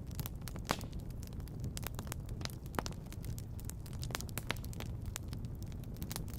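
Wood fire crackling in a fireplace: irregular sharp pops and snaps, a few louder ones, the loudest about a second in, over a steady low rumble.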